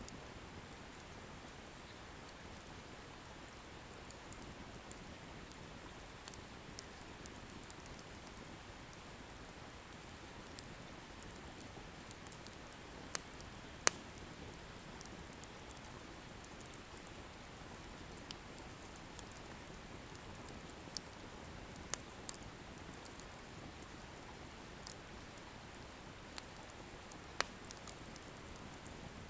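Wood bonfire burning: a steady soft hiss with scattered sharp pops and crackles of firewood, the loudest pop about fourteen seconds in.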